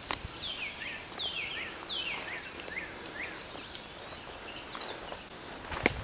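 A songbird singing a run of falling, whistled notes, about two a second, then shorter, higher notes. A sharp click comes just before the end.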